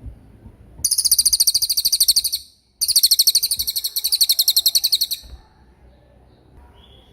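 Small songbird singing two long, very high, rapid trills, about a dozen notes a second, the first starting about a second in and the second following after a brief pause, with faint softer calls near the end.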